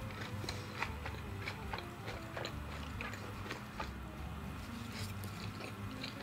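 Close-miked chewing and biting, with many small, irregular wet mouth clicks, as a mouthful of stir-fried instant noodles (Indomie Mi Goreng) is eaten.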